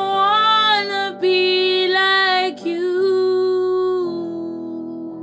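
A woman singing long held notes without words over acoustic guitar. The voice fades out about four seconds in and the guitar chord rings on.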